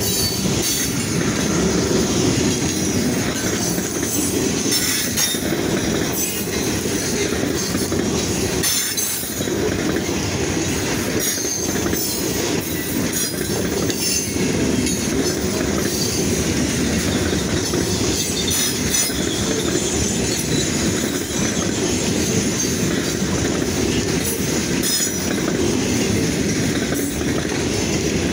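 Freight train cars rolling past at close range: a steady, loud rumble of steel wheels on rail, with clacking over the rail joints.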